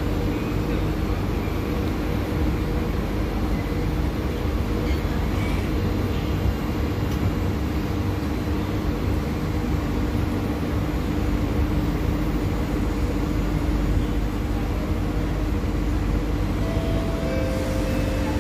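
SMRT C151A train standing at the platform with its doors open: a steady hum over a low rumble, holding one constant mid-pitched tone. Two short, slightly higher tones sound one after the other near the end.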